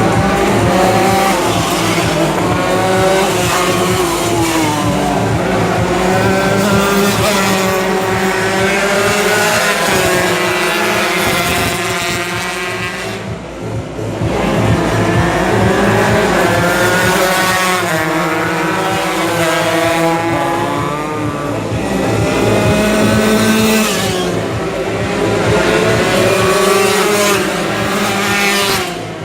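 Several tuned two-stroke Yamaha RX King 140 cc race motorcycles running at racing speed, several engine notes overlapping. Their pitch rises in repeated sweeps, with a brief drop in loudness about thirteen seconds in.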